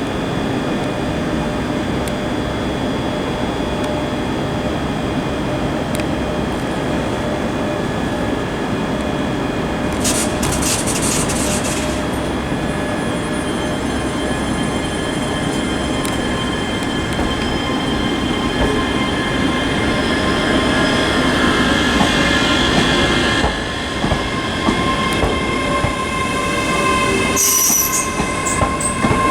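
Passenger train moving slowly on the rails, its wheels squealing in several steady high tones over a continuous running noise that grows louder in the second half. Sharper high screeches come about ten seconds in and again near the end.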